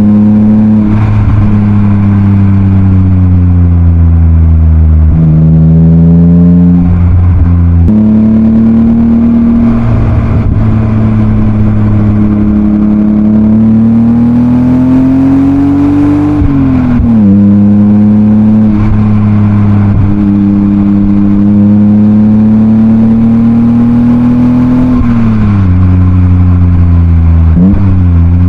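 BMW E36 328i's M52B28 2.8-litre inline-six, heard through a Schmiedmann rear silencer, pulling on the road: the engine note rises and falls with the throttle, with sudden drops in pitch at gear changes several times.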